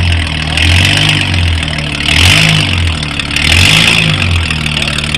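Off-road 4x4's engine revving in repeated bursts as it is driven through a deep muddy rut: the pitch climbs and drops back about four times, dropping to idle in between.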